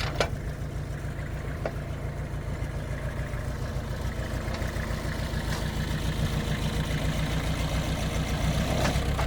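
Heavy diesel engine of earthmoving machinery running steadily near idle, with a fast even pulse, a couple of sharp clicks in the first two seconds, and a little louder near the end.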